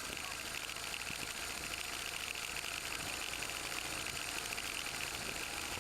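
BMW R1200R motorcycle's flat-twin engine running steadily while riding, mixed with steady wind and road noise.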